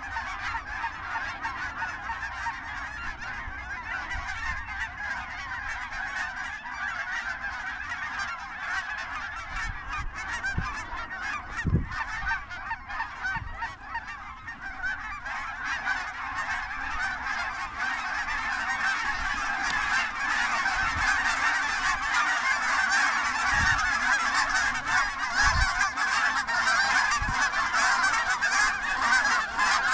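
A large flock of geese honking in a continuous chorus of many overlapping calls, growing steadily louder as the birds come closer. A few short low bumps sound under it.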